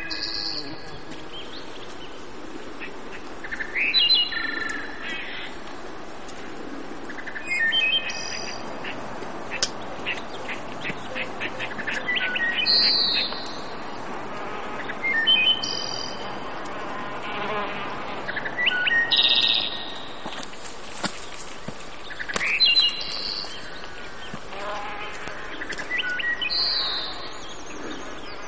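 A bird singing short, high phrases, one every three to four seconds, over a steady background hiss.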